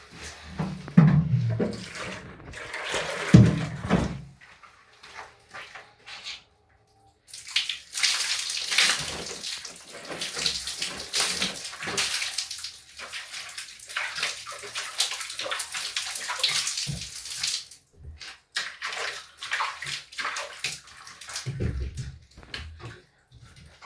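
Water splashing and pouring during hand washing and cleaning. The hiss is dense for about ten seconds in the middle, with two loud low knocks or bumps in the first few seconds.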